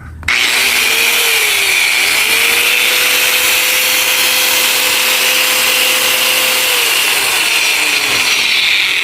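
Mitsushi 1000 W angle grinder switched on and running free with no load, a steady high whine that starts suddenly just after the start. It runs very smoothly.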